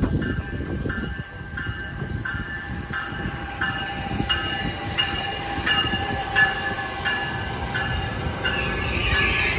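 New Jersey Transit Bombardier electric locomotive pulling in and passing close by, its bell ringing steadily about every half second over the rumble of the train. The rolling noise grows louder near the end as the locomotive and cars go past.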